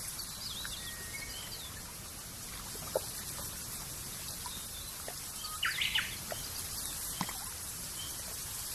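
Birds chirping over a steady background hiss, with short scattered chirps and a louder cluster of calls about halfway through. A few brief ticks are scattered in between.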